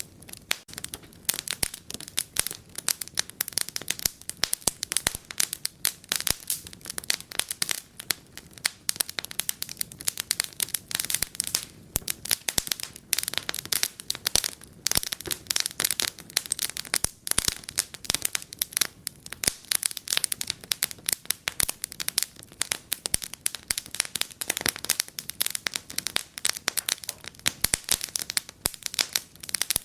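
Wood fire crackling in a fireplace: a dense, steady run of sharp pops and snaps.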